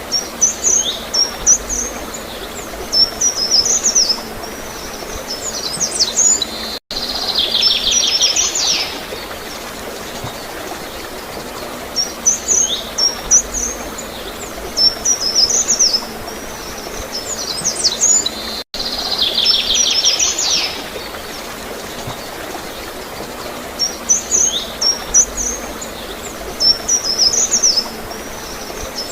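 Small songbirds chirping in short bursts of quick high notes, with a fast rattling trill now and then, over a steady gurgle of flowing water. The same sequence comes round again about every 12 seconds, each time after a brief dropout: the recording is a loop.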